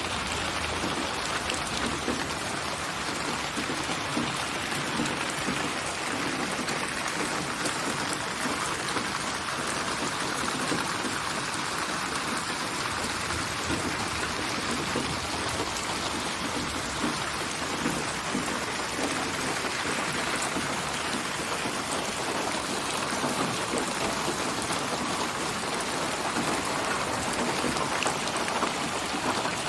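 Steady rain falling, an even hiss of many drops hitting surfaces, with no let-up.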